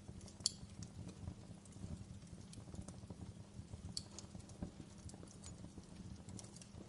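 Fire in a fireplace crackling: a steady low rumble of flames with frequent small crackles and two sharper pops, about half a second in and about four seconds in.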